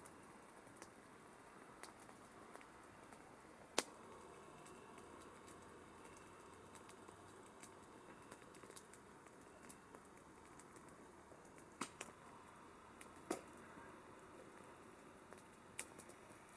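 Campfire burning: a soft steady hiss with scattered crackles and sharp pops from the wood, one loud pop about four seconds in and several more in the last third.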